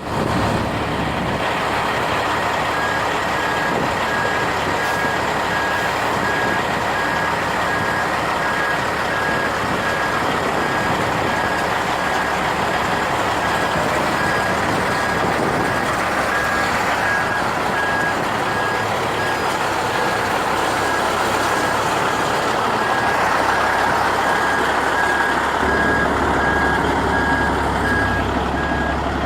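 2004 Peterbilt truck running, its reversing alarm beeping at an even pace from a few seconds in over the steady engine noise. The low rumble grows heavier near the end.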